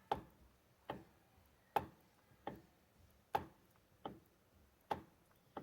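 Sharp snapping clicks from the steering column of a Mitsubishi L200 Triton as the steering wheel is turned, about eight of them, roughly one every 0.8 seconds. The owner suspects a worn bearing in the steering box.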